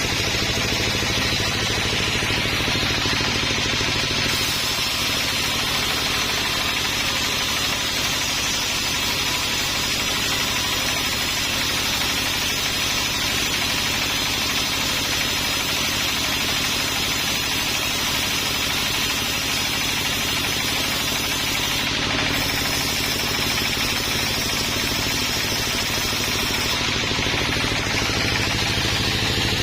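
Sawmill engine running steadily under a dense mechanical din.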